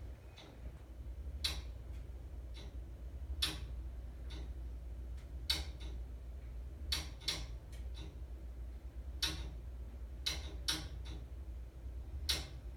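Gas meter and gas piping making sharp, separate clicks or pops at irregular intervals of about one to two seconds, over a low steady hum. The owner links the clicking to her furnace being starved for gas.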